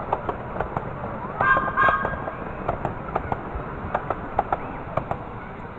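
Two short flat toots of a miniature railway locomotive's whistle, a little after a second in, over a run of irregular sharp clicks and knocks.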